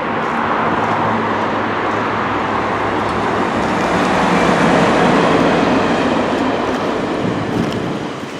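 A train passing: a steady rumble and rush of wheels on rail that builds to its loudest about halfway through, then eases off.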